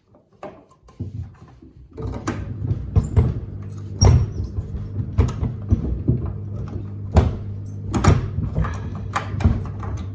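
Samsung WD70T4047CE front-loading washer-dryer drum starting to turn about two seconds in, its motor humming steadily, with sneakers thudding against the drum every second or so as it tumbles.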